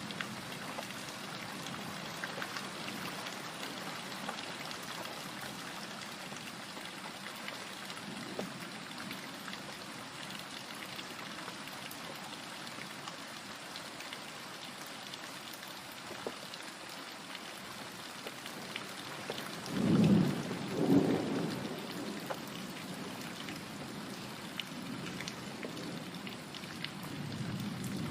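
Steady rain pattering on a surface, with a loud double clap of thunder rumbling about two-thirds of the way through and a softer low rumble near the end.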